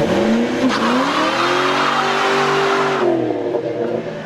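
Car engine revved hard and held at high revs, with a hiss of spinning tires, as in a burnout. About three seconds in, the revs drop and the tire noise stops.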